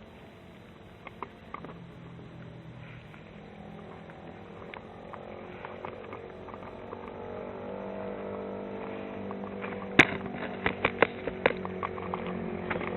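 A vehicle's engine running steadily, growing louder through the second half, with a run of sharp clicks and taps near the end.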